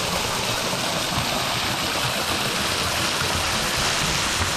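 Small waterfall pouring into a creek: a steady, even rush of falling water.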